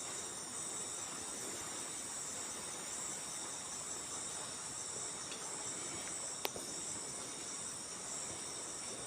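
Steady, high-pitched chorus of forest insects trilling without a break, with a single sharp click about six and a half seconds in.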